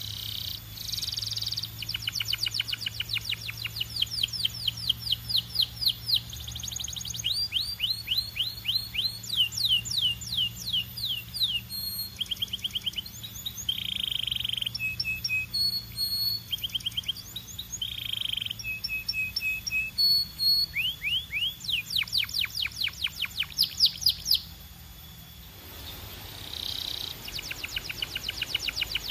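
Belgian canary singing: long, fast trills of repeated sweeping notes, with rolls and short buzzy phrases in between. It breaks off briefly near the end, then starts up again.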